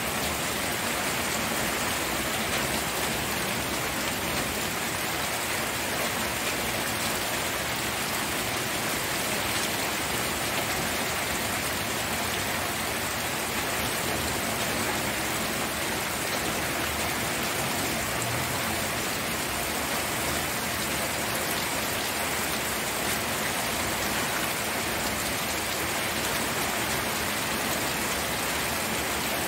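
Steady, continuous rain falling, an even hiss of many drops on surfaces without breaks or single events.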